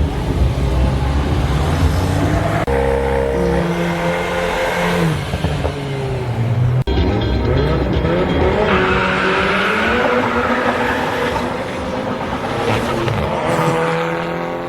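Drag-racing cars revving and accelerating hard, the engine pitch climbing and dropping several times. There is an abrupt cut about seven seconds in, after which another run's engine note rises again.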